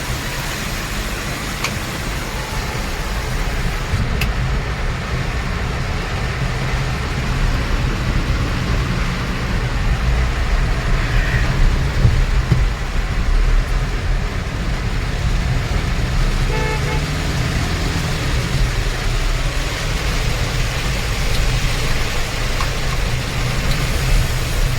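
Car driving on a flooded highway in heavy rain: steady engine rumble with a hiss of tyres on the wet road and rain. A brief horn toot comes about two-thirds of the way through.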